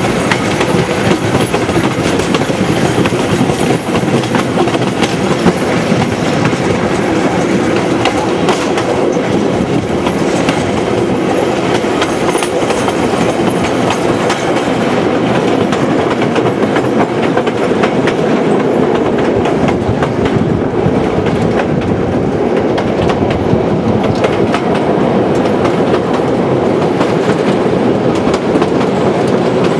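Passenger train running along the track, heard from a carriage: a steady rumble of wheels on the rails with a fine clickety-clack, as the train crosses a trestle viaduct.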